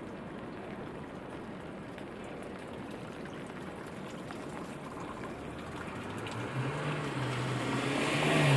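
Steady rainfall with light drop ticks. From about six seconds in, a vehicle approaches on the wet road and grows louder, with a low engine hum and rising tyre hiss.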